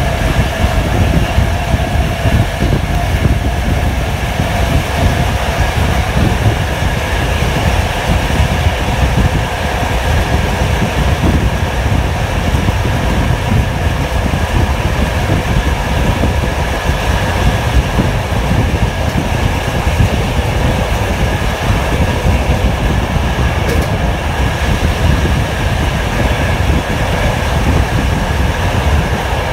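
TLK passenger train running along the line: a steady, loud rumble of wheels on the rails with a faint steady whine above it, heard from the carriage's open window.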